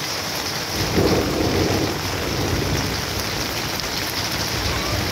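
Heavy rain falling steadily on leaves and wet ground, with a low rumble of thunder swelling about a second in and fading over the next couple of seconds.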